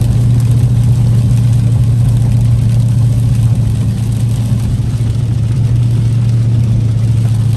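Car engine running at a steady speed, a constant low hum that neither rises nor falls, with road rumble underneath.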